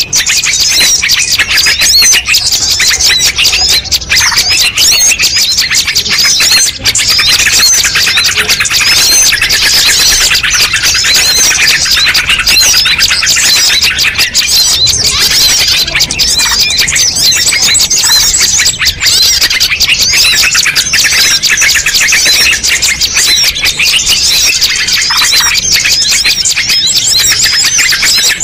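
Dense chorus of many small songbirds chirping, trilling and calling over one another without a break, loud and steady: a mixed-species bird lure call (suara pikat) played to draw wild birds in.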